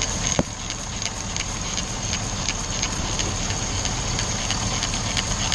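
V8 engine with a random misfire idling steadily, with a constant high whine over it and irregular sharp ticks, several a second. A single louder click comes just after the start.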